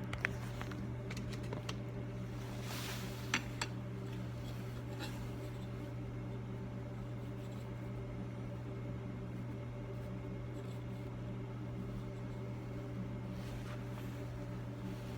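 Steady low mechanical hum, with a few light metallic clicks and a brief scrape about three seconds in as a micrometer and clamp are handled at the bench.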